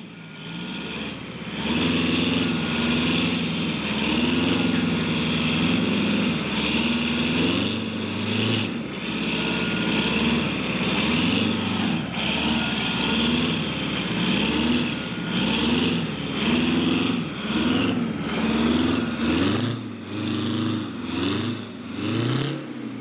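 Detroit Diesel 8V71 two-stroke V8 of a 1977 American LaFrance fire truck, revved up and let down again and again under load. The truck is stuck in mud and being rocked, with a drive wheel spinning and digging in rather than pulling free.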